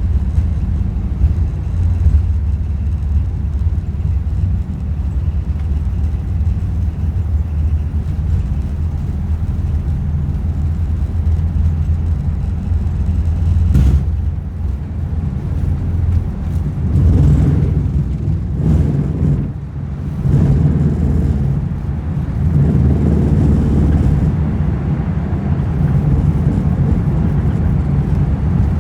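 Airbus A380 cabin noise during takeoff: a loud, steady low rumble of the engines and airframe. A single sharp click comes about halfway through, and in the second half the rumble rises and falls unevenly.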